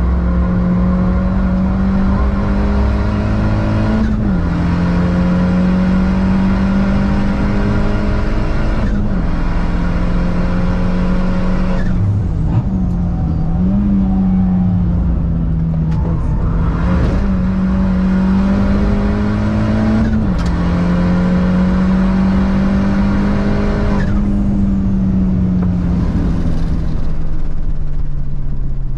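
A car engine driven hard, its pitch climbing in each gear and dropping at each of about six gear changes, then falling away near the end as the car slows.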